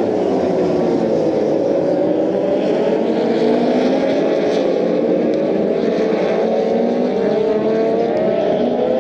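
A pack of Moto2 race motorcycles, Triumph 765 cc three-cylinder engines, running past on the circuit at full throttle. Many engine notes overlap, each rising and falling in pitch as the bikes go by.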